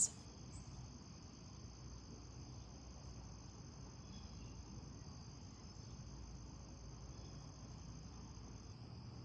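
Crickets chirping as a faint, steady, high-pitched trill.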